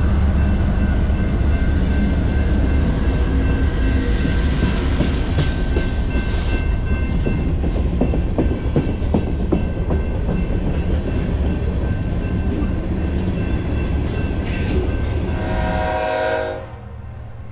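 Diesel freight train passing close by: a loud, steady rumble of locomotive and railcars, with wheels clicking over the rail joints. Near the end a short horn note sounds, then the sound drops off sharply.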